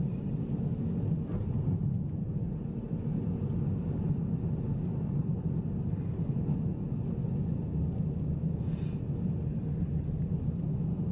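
Steady low rumble of a car driving on a snowy, icy road, with a brief hiss about nine seconds in.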